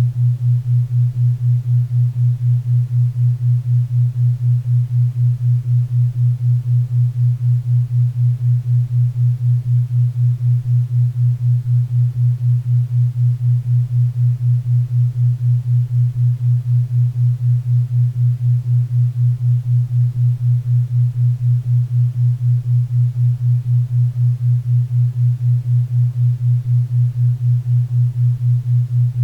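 4 Hz theta-wave beat: a low hum pulsing evenly about four times a second, over a faint bed of pink and brown noise.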